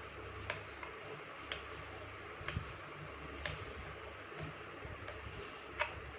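Faint light ticks, about one a second, over a low steady hum, with a few soft thumps from handling.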